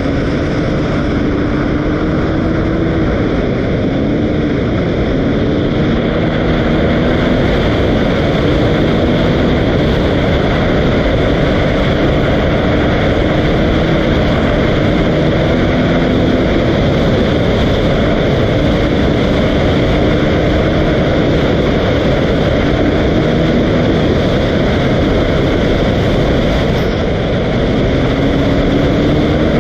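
Dirt bike engine running continuously, its note wavering up and down with the throttle over a steady, loud rush of noise.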